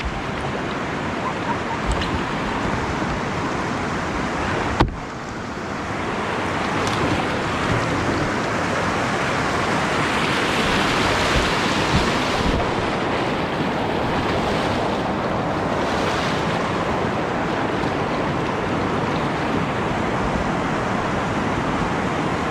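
Steady rush of whitewater rapids on a river, growing a little louder after a sharp knock about five seconds in.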